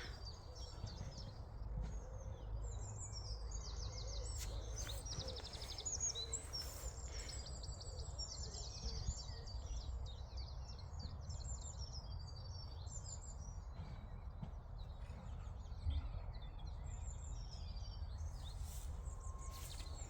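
Small songbirds singing outdoors in spring, several overlapping high chirps and quick trills, busiest in the first half, over a steady low rumble.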